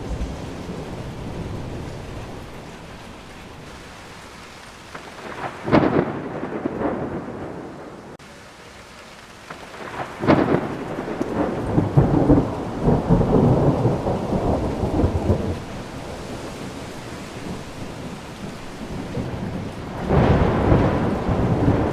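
Thunderstorm: steady rain with rolls of thunder, a short one about a quarter of the way in, a longer rumbling one around the middle, and another starting near the end.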